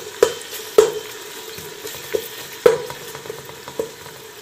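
Onions, tomatoes and green chillies frying in oil in a metal pot, stirred with a slotted metal spoon: a steady sizzle with about five clanks of the spoon against the pot, each ringing briefly.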